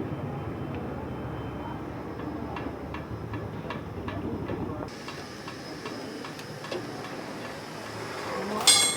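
Light metallic clicks and taps from tools on a truck wheel's studs and nuts, then one loud, ringing metal-on-metal strike near the end.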